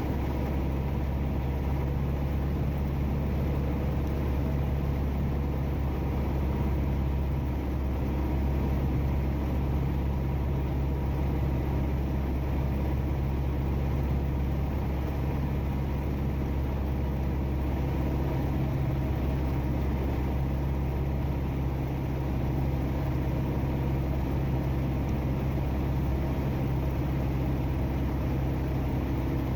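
Steady drone of a Beechcraft Sundowner's four-cylinder Lycoming engine and propeller in cruise-approach power, heard inside the cockpit, with no change in pitch.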